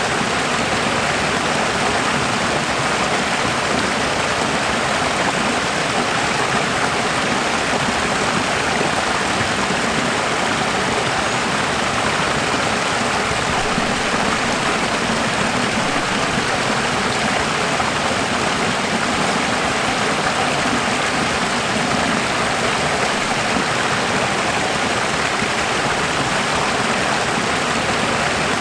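Running water flowing steadily, an even rushing sound that does not change.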